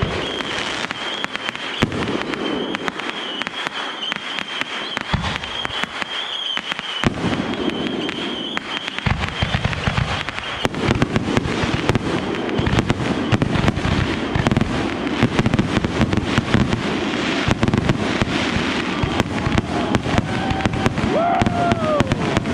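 Fireworks display: dense crackling and rapid bangs, with a steady high whistle over the first half. Heavier low booms come thick and fast from about nine seconds in, and a few rising and falling whistles sound near the end.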